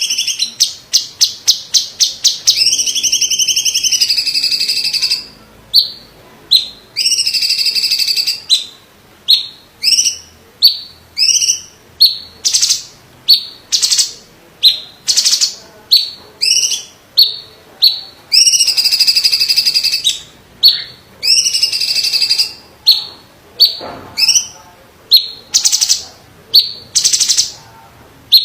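Green leafbird (cucak ijo, cungkok type) singing loudly: long rattling trills of one to two seconds alternate with runs of short, sharp whistled notes at about two a second.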